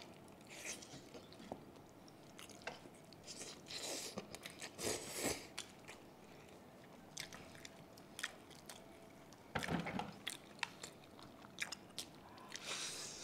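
Close mouth sounds of two people biting and chewing boiled pork head meat and skin, with irregular wet smacks and clicks and a few louder bursts.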